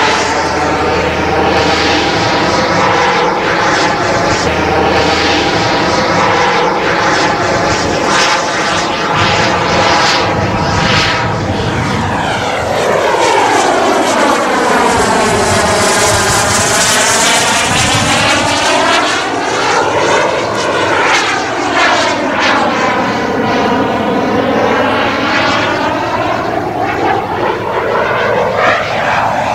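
Twin KingTech K-235 G4 turbine engines of a 1/6-scale Su-30SM RC jet running in flight, a loud continuous jet roar. The sound swells and sweeps up and down in pitch several times as the model makes low passes.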